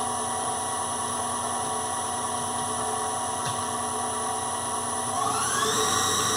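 Hardinge Omniturn CNC lathe spindle running steadily on its new direct-drive motor unit, very quiet, with a little whine from the drive belt. About five seconds in it speeds up, from 1000 toward 2000 RPM: the pitch rises for about half a second, then settles higher and a little louder.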